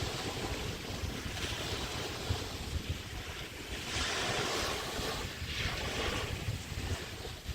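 Small bay waves washing onto a beach, surging twice in the second half, with wind buffeting the microphone as a low, uneven rumble.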